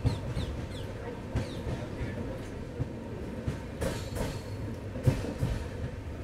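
Double-decker express train running into a station, heard at the open coach door: a steady rumble of wheels on rail with irregular clanks and knocks, loudest about four and five seconds in. A few bird chirps come near the start.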